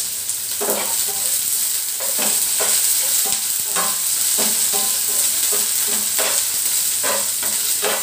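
Sliced onions and green chillies sizzling in hot oil in a non-stick frying pan, with a spatula scraping and knocking against the pan in irregular strokes as they are stirred.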